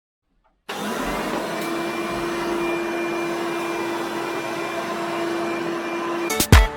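Hoover Soft n Lite vacuum cleaner running with a steady whooshing hum and one constant tone. It comes in abruptly about a second in, and music takes over shortly before the end.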